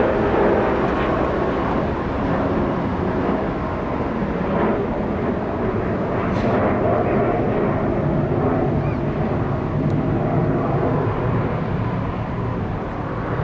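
Jet airliner's engines at takeoff power: a loud, steady rumble with a low hum, from an aircraft departing the runway.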